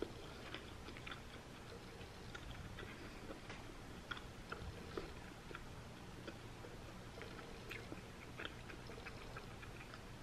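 A person chewing a mouthful of cauliflower sushi: faint, irregular soft clicks and smacks of the mouth.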